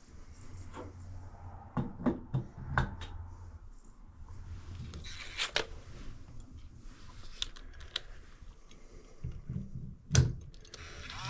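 Scattered clicks, taps and knocks of shower fixture parts and hand tools being handled during reassembly of the shower valve, with one loud knock about ten seconds in.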